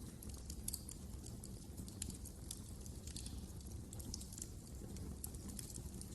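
Fire crackling in a fireplace: frequent small, irregular pops and snaps over a steady low rumble.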